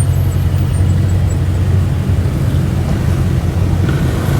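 Steady low rumble of car engines idling close by.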